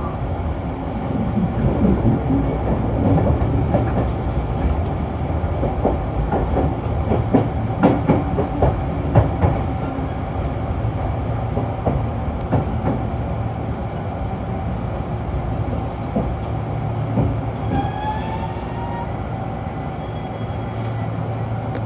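Kintetsu 6020 series electric train heard from inside the car while running: a steady low rumble with a run of wheel clacks over rail joints in the first half, and a short rising whine near the end.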